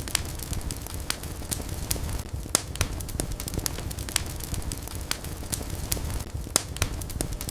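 Wood fire burning with irregular sharp crackles and pops over a steady low rumble of flames.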